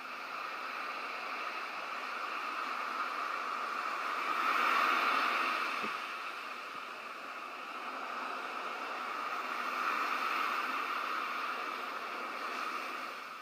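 Ocean waves washing onto a shore, a steady surf that swells twice, once about five seconds in and again around ten seconds.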